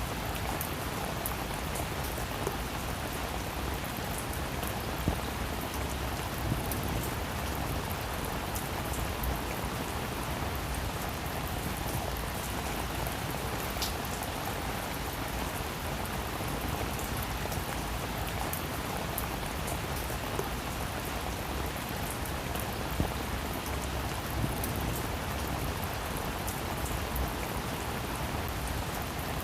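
Steady rain falling on a roof, an even hiss with scattered individual drops tapping and a few louder single taps.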